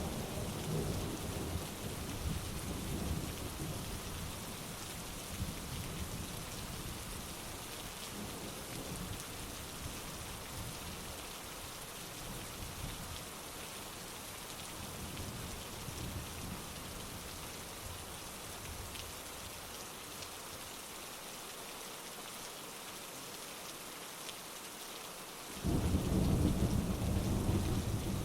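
Heavy rain falling steadily. A rumble of thunder dies away over the first half, and a sudden loud peal of thunder breaks in near the end.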